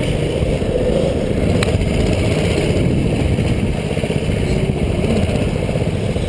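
Doodle Bug mini bike's small engine running steadily while riding.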